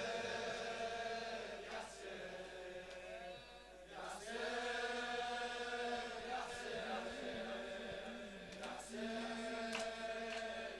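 A quiet backing drone of layered voices humming held chords that shift slowly in pitch, with no lead vocal and no percussion; this is the interlude between verses of a Shia latmiya lament.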